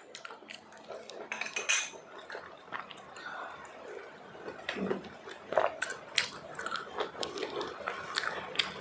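Close-miked eating of pav bhaji and pani puri: chewing, with many scattered sharp clicks and clinks of a plate and utensils.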